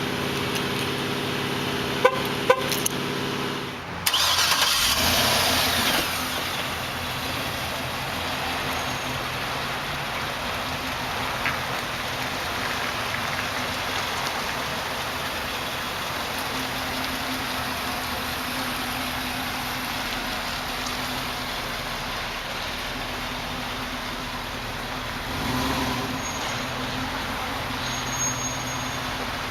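Motor vehicle sounds: a steady low hum for about four seconds, then an abrupt change to steady road and wind noise with a faint engine hum.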